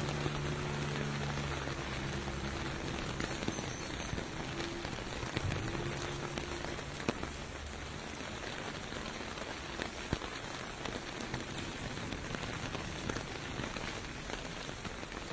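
Steady rain falling on pavement, with a few sharper drip ticks. A low vehicle hum sits under the rain in the first half and is gone about seven seconds in.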